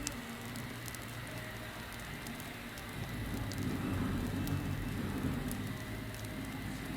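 Campfire burning with a steady hiss and many small sharp crackles and pops, over a low rumble that grows a little louder about three seconds in.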